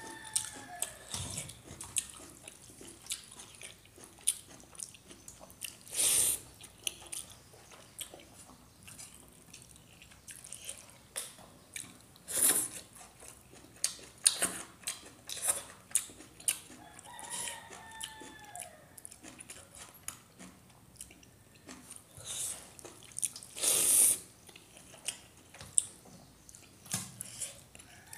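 Close-miked eating of rice and leafy saag by hand: chewing, wet mouth clicks and smacks, with a few louder slurping smacks. A rooster crows in the background at the start, again a little past the middle and at the very end.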